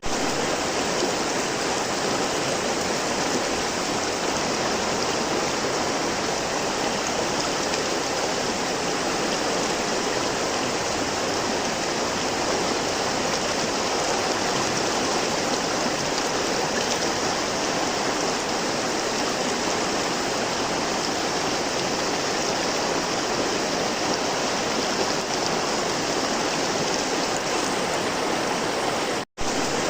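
River water flowing with a steady, even rush. The sound cuts out for an instant near the end.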